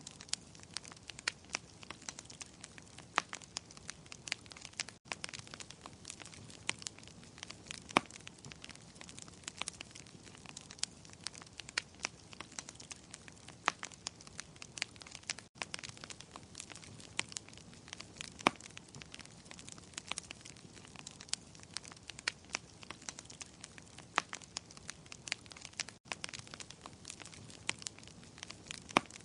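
Wood fire crackling, with many irregular sharp pops and snaps over a steady low hiss. There is a brief dropout about every ten seconds.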